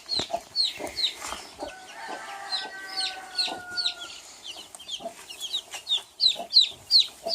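Baby chicks peeping over and over, short high calls that slide downward, a few every second, with lower clucks from the mother hen. About two seconds in, an adult chicken gives a longer, held call.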